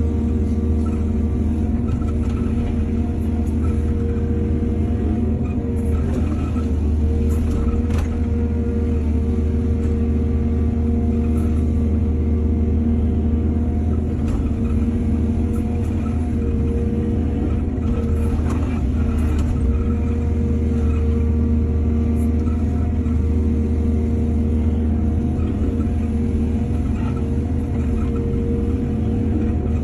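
Heavy diesel engine of an excavator running steadily at working revs, with a few faint knocks.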